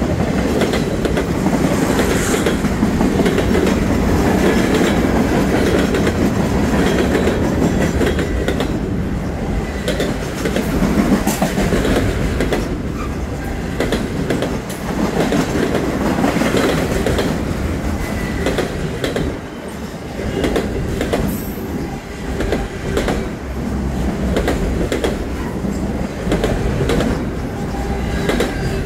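Freight train rolling past close by, flatcars and then autorack cars, with a steady rumble and repeated clicking of the wheels over the rail joints.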